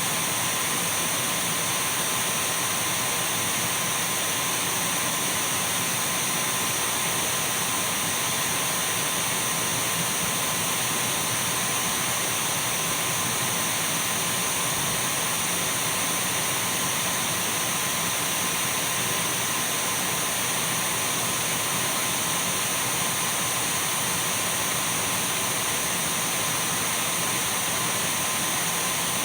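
Dyson V12 cordless stick vacuum running steadily: an even rushing noise with a thin high whine held at one pitch.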